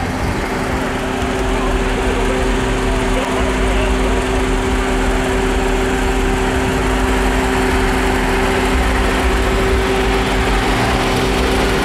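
An engine running steadily at a constant speed, with a steady hum and low rumble.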